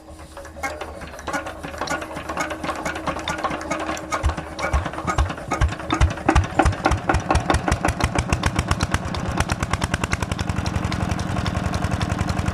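Petter diesel engine on a tubewell being started. It catches about four seconds in with slow, heavy thumps that come faster and faster as it picks up speed. It settles into steady, even running near the end.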